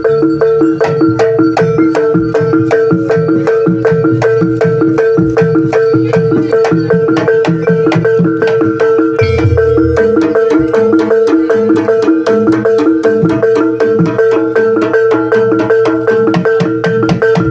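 Ebeg (jaranan) accompaniment music: a fast, even beat on gamelan-type mallet percussion and drums, with one note held throughout.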